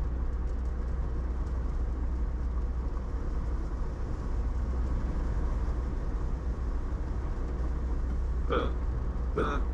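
Steady in-cabin road noise from a car driving slowly: a constant low engine and tyre rumble.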